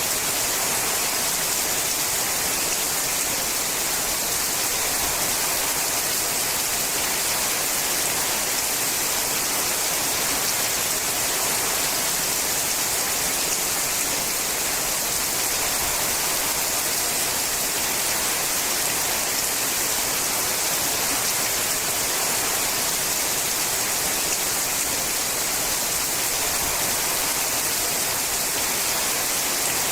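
Steady rain falling on a sheet-metal roof: an even, unbroken hiss with no let-up.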